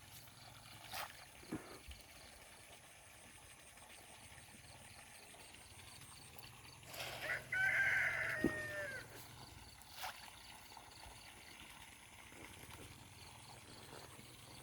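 A rooster crowing once, a call of about two seconds starting some seven seconds in, with a few faint knocks scattered around it.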